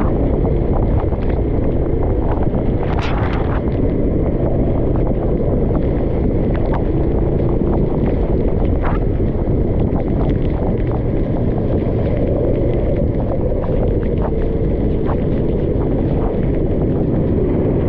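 Steady, loud rumble of a racing kart's engine mixed with heavy wind buffeting on the microphone, with scattered short knocks.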